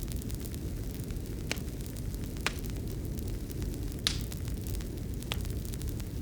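Wood fire crackling in a fireplace: a steady low rumble with a few sharp, separate pops about a second apart.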